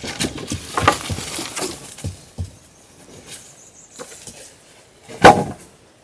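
Hand work sounds: a run of scraping and short knocks, then scattered faint knocks, with one loud sharp knock a little after five seconds in.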